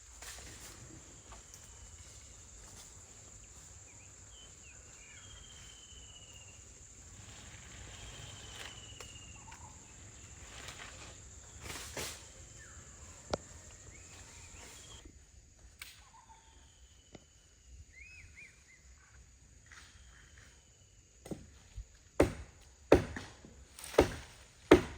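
Quiet outdoor ambience: a steady high insect buzz that stops a little past halfway, with scattered short whistled chirps. Near the end come several sharp knocks, the loudest sounds.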